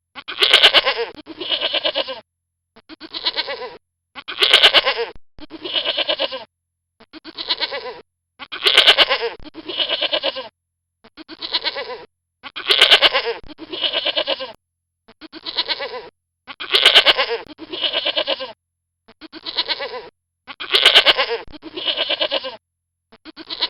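Bleating from a goat or sheep-type farm animal: groups of three bleats, the middle one the loudest, repeating identically about every four seconds like a looped recording.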